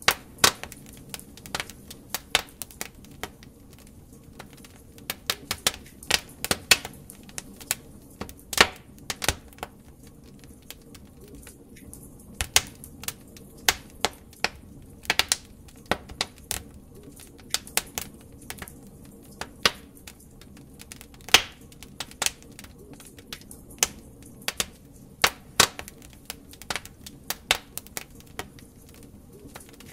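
Wood fire crackling in a fireplace: irregular sharp pops and snaps from burning logs, some in quick clusters, over a steady low rumble of the flames.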